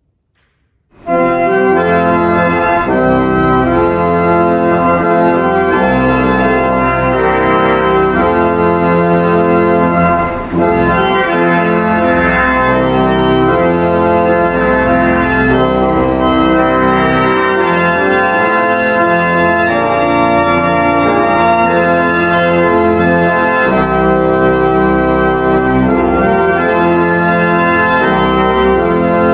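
Organ music starting about a second in, playing full sustained chords that change every second or so.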